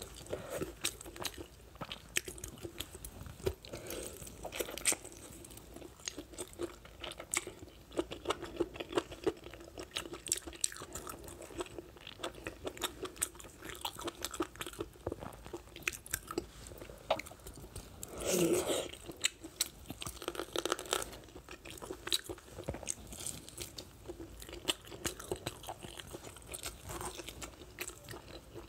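Close-miked chewing and biting of a bone-in lamb leg: a steady run of wet mouth clicks and smacks, with one louder, longer burst about two-thirds of the way through.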